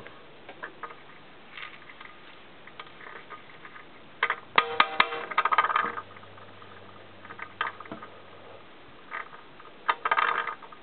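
Small hard firework cracklers clicking and rattling as they are handled. There is a dense clatter about four to six seconds in, another near the end, and scattered light clicks between.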